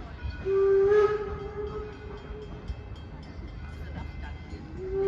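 Steam locomotive whistle blowing: one blast starts about half a second in, loud at first and then held weaker for a couple of seconds, and a second blast begins near the end, over the low rumble of the train.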